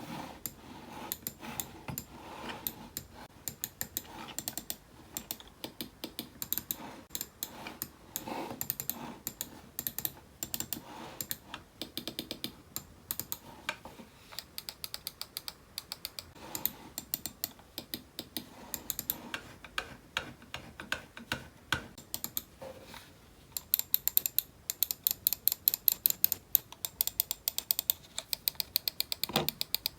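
Typing on a computer keyboard: a fast, continuous run of key clicks. About two-thirds of the way through, the keystrokes become louder and sharper.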